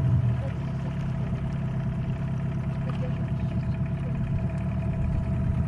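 Boat motor running steadily, an even hum with a constant whine above it.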